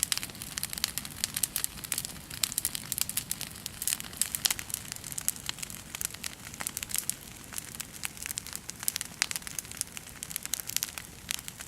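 Wood bonfire crackling, with many irregular sharp pops and snaps over a low hiss.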